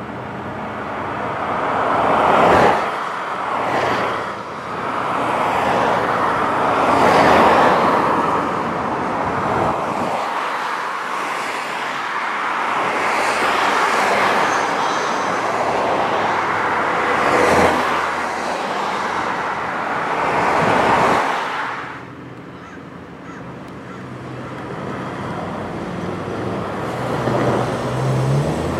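Street traffic: cars passing one after another, each swelling and fading, with a quieter stretch near the end where a low engine hum builds.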